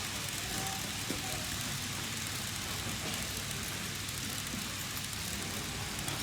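N-gauge model train running along a layout track, a steady rumble and hiss of its small motor and wheels on the rails, with faint voices in the background.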